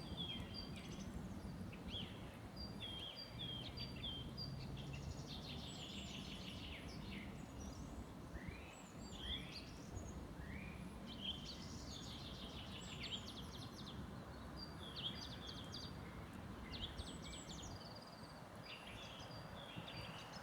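Several songbirds singing together in a spring forest: repeated short chirps, falling whistled notes and quick trills that overlap one another, over a steady low rumble.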